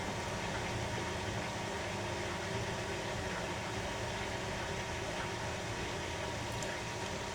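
Beko washing machine running steadily partway through a 30° Super Wash cycle, with a constant motor hum.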